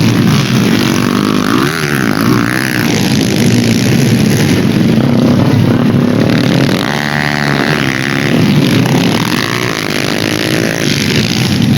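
Dirt-bike engines running and revving during a race, one engine note climbing and falling clearly about seven seconds in.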